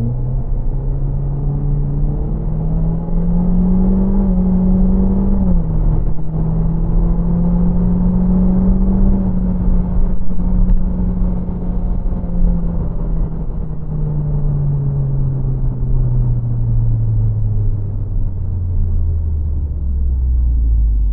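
Nissan Juke Nismo's turbocharged 1.6 DIG-T four-cylinder at full throttle, its X-Tronic CVT in manual mode: the revs climb for about five seconds and drop sharply at a shift. They then hold high for several seconds and fall away steadily.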